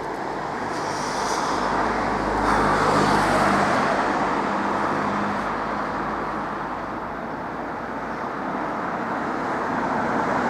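Road traffic: a motor vehicle passes by, loudest about three seconds in, over a steady hum of traffic.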